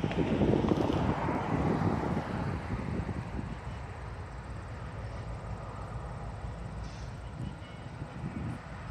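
EMD GP38 diesel locomotive running light, its engine rumbling loudly and then fading over the first few seconds as it moves away, leaving a steady lower rumble.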